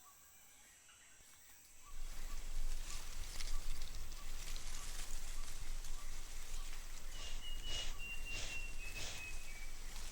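Rainforest ambience. At first it is faint: an insect ticks regularly, two to three times a second, over high, steady insect tones. About two seconds in it switches to a louder, steady hiss with scattered patters like rain. Near the end a bird gives a long, thin whistle that falls slightly in pitch.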